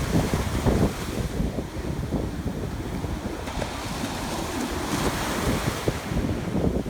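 Ocean surf washing on the shore, with wind buffeting the microphone in a gusty low rumble; a wash of surf swells around the middle.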